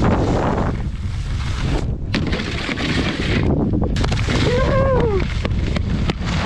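Wind buffeting the microphone of a skier moving fast downhill, over the hiss and scrape of skis on snow, with a few knocks. About 4.5 s in, a short pitched sound rises and then falls.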